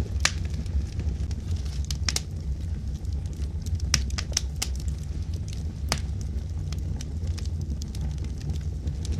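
Logs burning in a wood fireplace: irregular sharp crackles and pops, several close together about four seconds in, over a steady low rumble of the flames.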